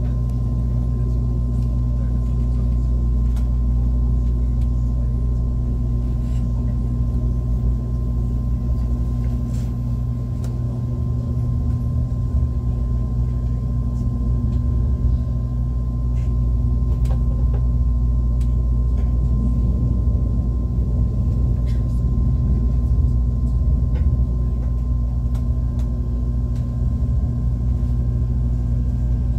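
ITX-Maeum electric multiple-unit train running along the track: a steady low rumble with a constant hum and a thin high tone held throughout, and a few faint clicks here and there.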